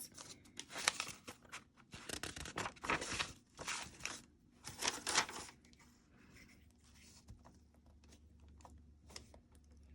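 Paper being torn by hand: a run of short rips and rustles in the first five seconds or so, then only faint handling.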